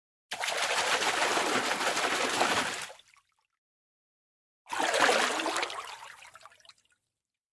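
Water sounds in two separate stretches, about three seconds and then about two seconds long, each starting and cutting off abruptly.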